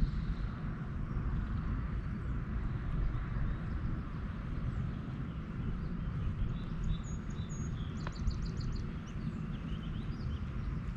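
Birds chirping over a steady low outdoor rumble, with a quick trill of about eight notes around eight seconds in.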